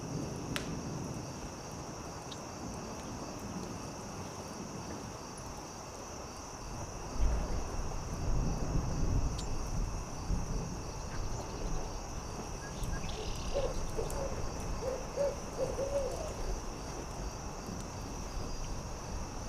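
An owl hooting, a run of about six short hoots about two-thirds of the way in, over a steady high insect trill and a campfire crackling with scattered sharp pops. A low rumble comes in about a third of the way through.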